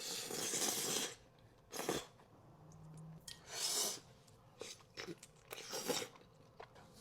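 Close-miked mouth sounds of someone eating Buldak spicy noodles and rice cakes: a long noisy bite or slurp in the first second, then separate chewing bursts.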